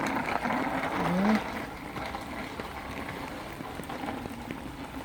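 Bicycle tyres splashing through rain puddles on wet pavement, with a short rising voice sound in the first second and a half; after that a steady, quieter hiss of rain on the ground.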